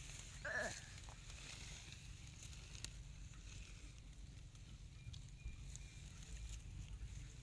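A newborn puppy gives one short squeal that falls in pitch, about half a second in. After it there is only a faint low rumble.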